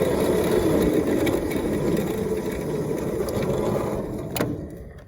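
A 5 inch gauge Maxitrak Planet model locomotive running on its track with a steady mechanical clatter. The sound fades away near the end, with one sharp click just before it dies down.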